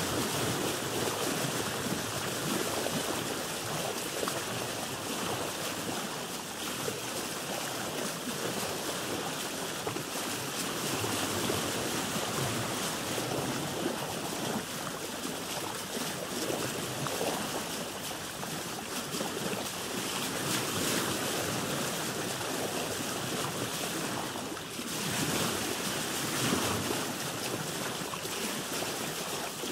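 Ocean waves heard from a boat: a steady rushing wash of sea water that swells and eases, dipping briefly about 25 seconds in.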